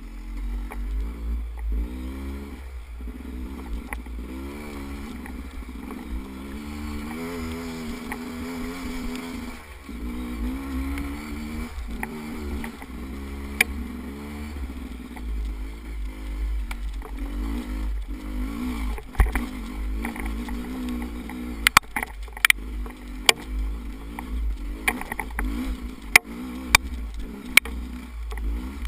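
Off-road motorcycle engine revving up and down as the bike is ridden over rough ground, over a low rumble of wind on the microphone. In the second half a series of sharp knocks and clicks cuts through.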